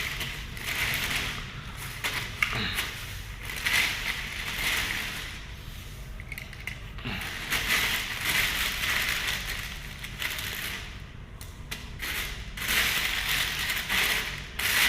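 Plastic toys clattering, scraping and rustling in irregular bursts as they are handled and piled together.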